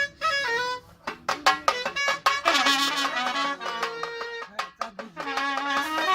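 Brass band playing a melody over drums: a quick run of wind notes, then a burst of drum strokes about a second in, then held horn notes.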